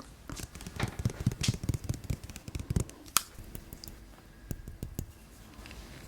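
Close-miked wet eating sounds from a person eating soft pudding: quick soft clicks and squishes, thick for the first three seconds, then sparser.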